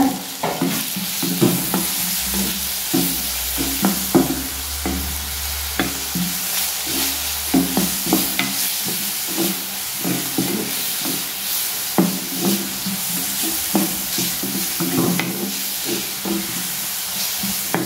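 Chopped onion and tomato sizzling in oil in a clay pot, while a wooden spatula stirs and scrapes against the pot in quick repeated strokes.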